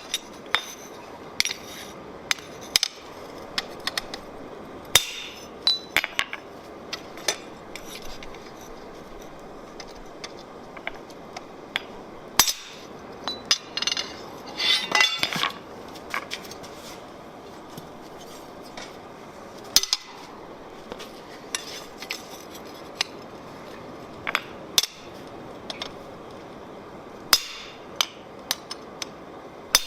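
Blacksmith's hammer striking steel on an anvil: irregular single blows that ring, with a quicker run of strikes about halfway through. A steady hiss runs underneath.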